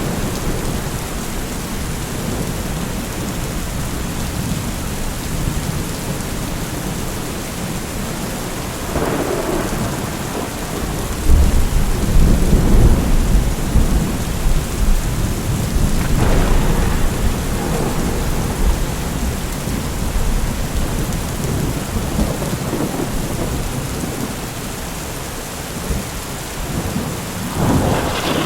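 Steady rain with rolling thunder: a crack about nine seconds in, then a loud low rumble that swells for several seconds, and further rumbles and a sharper crack near the end.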